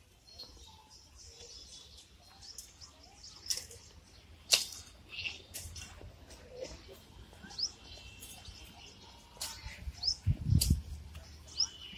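Outdoor ambience with a few short chirps of small birds, scattered sharp clicks, and a brief low rumble about ten seconds in.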